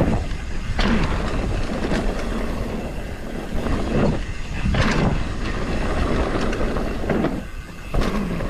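Mountain bike riding fast down a dirt trail: steady wind rush over the action camera's microphone and tyre noise, with several knocks and rattles from bumps.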